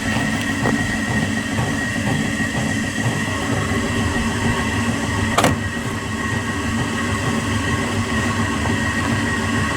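Washing machine running with a steady mechanical rumble and a high steady whine, with one sharp knock about five and a half seconds in.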